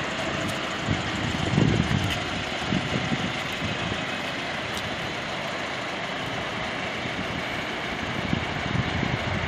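Volkswagen Bora's 1.6-litre eight-valve inline-four idling steadily, with a brief low rumble about two seconds in.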